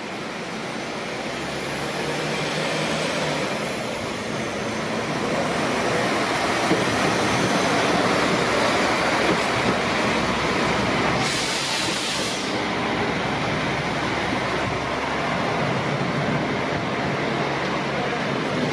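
A train running close by along the station tracks, with steady rail and wheel noise. A brief high hiss comes about eleven seconds in.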